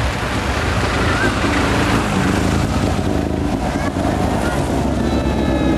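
Race car engines running at low speed as the cars pass close by one after another, a steady low exhaust rumble.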